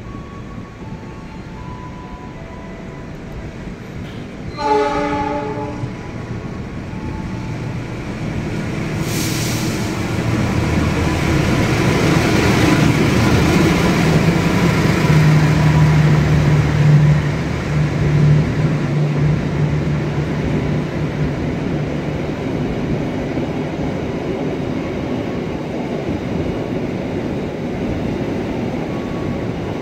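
A diesel locomotive sounds its horn once, briefly, then draws in close by with its engine drumming low and steady, and the coaches of a long-distance passenger train roll in behind it, the noise easing as the train slows to a stop.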